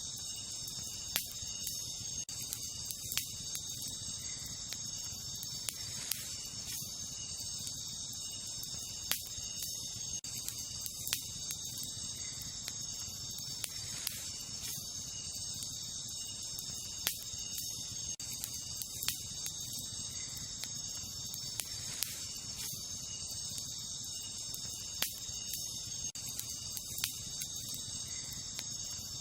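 Wood campfire crackling, with sharp pops every second or two over a low steady rumble of the flames. A steady high-pitched insect chorus, crickets, runs underneath.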